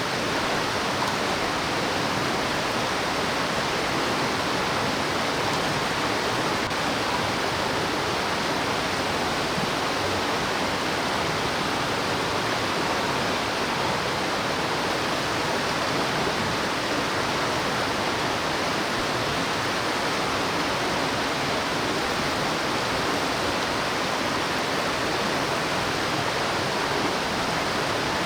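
Mountain stream rushing steadily over its rocks, an unbroken even wash of water.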